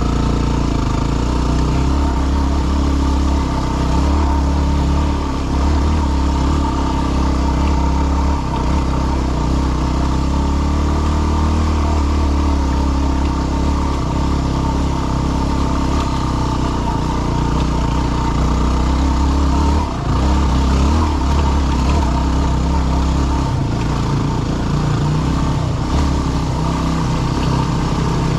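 Yamaha WR250R's single-cylinder four-stroke engine running under load as the dual-sport bike climbs a rocky trail, its note shifting up and down with the throttle.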